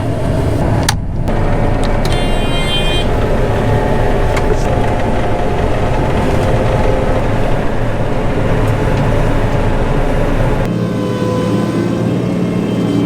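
John Deere 9500 combine running steadily under load while harvesting. The sound shifts abruptly near the end.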